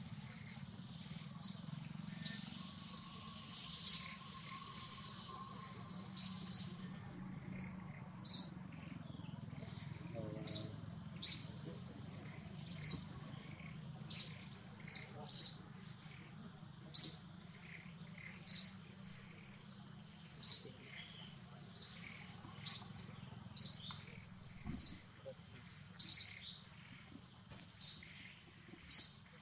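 A bird calling over and over with short, sharp, high chirps that drop in pitch, roughly one a second at uneven spacing. A steady thin high tone runs underneath.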